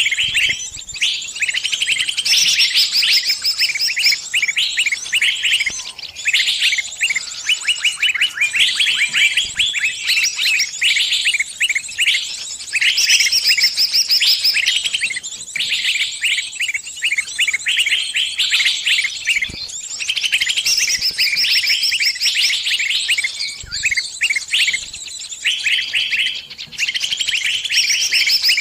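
Small bird's distress calls: fast, shrill, repeated chirps in dense bursts with brief gaps, the panicked calling of a trapped bird calling to its flock for help.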